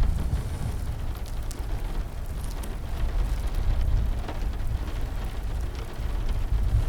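Heavy rain with a steady low rumble underneath, and a few sharp pops from a crackling fire.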